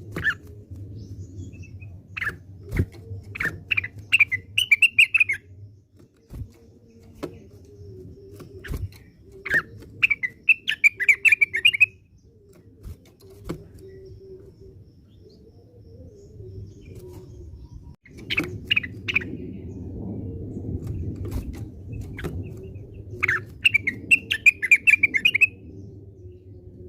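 Blue-winged leafbird (cucak wilis) singing in separate bursts of quick chirping, warbling phrases, with pauses of several seconds between them. Sharp clicks are scattered through it over a steady low hum.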